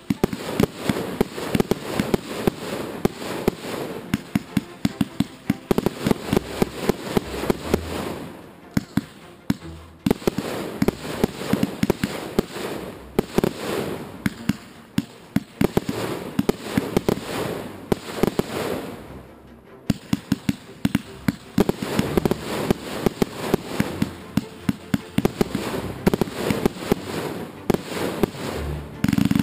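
Large fireworks display: a rapid, continuous series of aerial shell bursts and crackling stars, with two short lulls, about a third and two-thirds of the way through.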